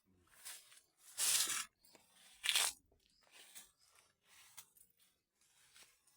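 A few irregular crunching noises, the loudest about a second in and again around two and a half seconds in, with fainter ones between.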